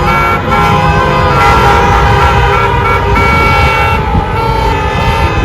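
Several car horns honking together in long held blasts over city street traffic.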